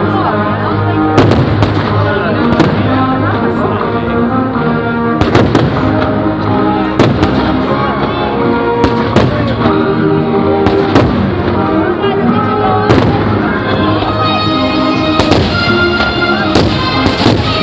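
Fireworks shells bursting in a rapid, irregular series of sharp bangs every second or two, over loud show music that runs throughout.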